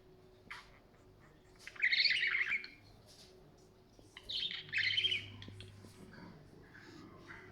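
Budgerigar chattering and warbling in two short bursts of rapid, scratchy chirps, about two seconds in and again about four and a half seconds in, with a few brief ticks between.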